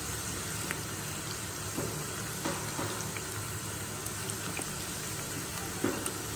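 Potato slices sizzling steadily in hot oil in a frying pan, with a few light taps of a spatula moving them.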